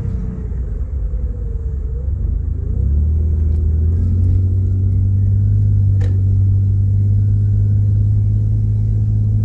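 Vehicle engine and road noise heard from inside the cabin while driving. The drone strengthens about three seconds in as the vehicle picks up, then holds steady with its pitch rising slowly, and there is a single sharp click about six seconds in.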